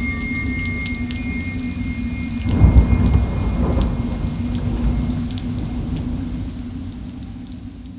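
A "demonic rain" Halloween sound effect: steady rain under a low rumble and a few faint held eerie tones, with a heavy thunder rumble swelling in about two and a half seconds in, then the whole mix slowly fading out near the end.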